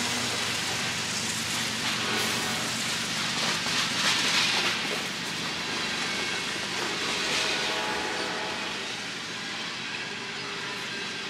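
Train rolling past on the rails: a steady rush and rumble of wheels on track, swelling a few times as cars go by.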